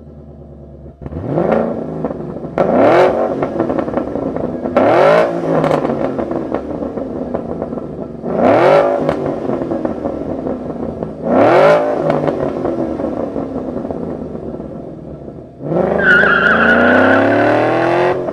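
Ford Mustang GT's 5.0-litre V8 through a Borla touring exhaust, revved in five quick blips that climb and fall back. Near the end it sets into a longer, sustained pull.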